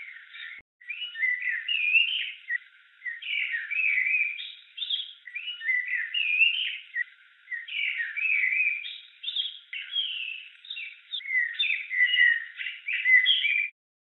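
Songbird singing: a fast run of chirps and whistled phrases with short pauses between them, breaking off suddenly near the end.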